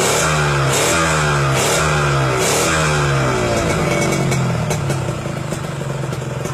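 Yamaha RXZ two-stroke single revved through a Yon'z Racing aftermarket exhaust: about four quick throttle blips, each rising and falling in pitch, then dropping back to idle about five seconds in.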